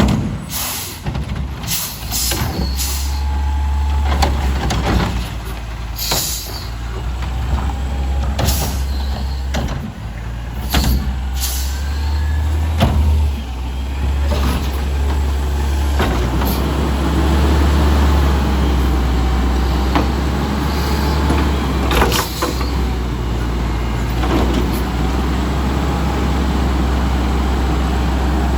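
Garbage truck's diesel engine running steadily with a wavering whine over it, while clanks and knocks come thick through the first half and short air-brake hisses sound a few times.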